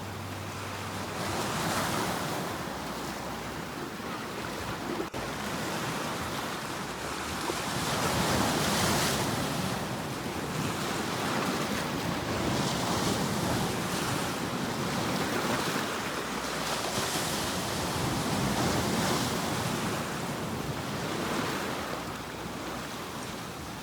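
Ocean waves breaking and washing up on a shore: a continuous rushing surf that swells every four to five seconds as each wave comes in, then ebbs.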